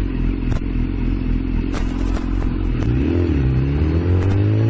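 Suzuki DR-Z400 supermoto's single-cylinder engine running under way amid road and wind noise, with several sharp clicks. Past halfway the engine note dips, then rises steadily as the bike accelerates.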